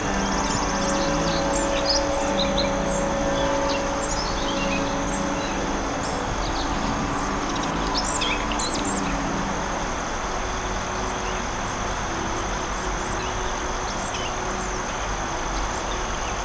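Soft ambient music with long held notes, layered over forest ambience: songbirds chirping in scattered short calls, with a quick falling run of notes about four seconds in and a flurry near the middle, over a steady hiss.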